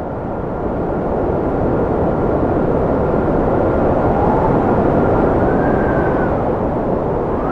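Cold wind blowing in a steady roar, swelling over the first second or so, with thin whistling tones that hold and now and then rise and fall.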